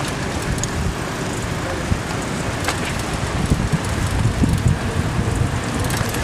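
Steady wind rush and low rumble on the microphone of a moving KMX recumbent trike, with a few faint clicks.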